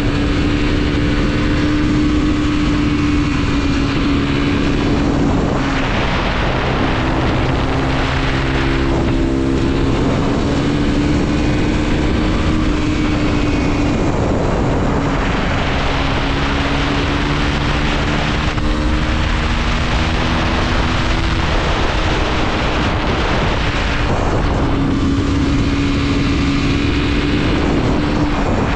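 Mondial SMX 125's single-cylinder four-stroke engine pulling under way, its pitch climbing and dropping several times as the rider works the throttle and gears, with wind noise over the microphone.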